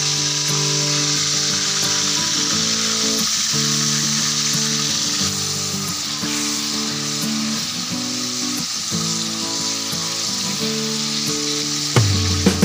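Strips of mushroom sizzling as they fry in oil in a wok. Background music plays under it. Near the end, a few sharp knocks as the metal spatula hits the wok.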